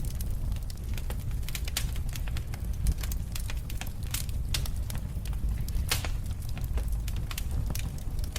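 Wood fire crackling in a fireplace: irregular pops and snaps over a steady low rumble, with one sharper pop about six seconds in.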